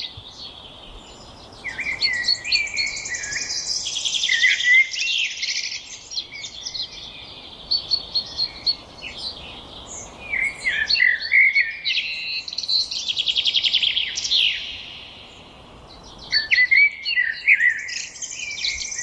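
Songbirds singing: a dense, overlapping run of chirps, slurred whistles and fast trills, with two short lulls, the longer one about 15 seconds in.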